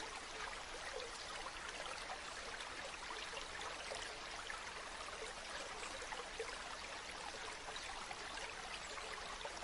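Faint, steady hiss of background ambience with light crackle, like distant running water.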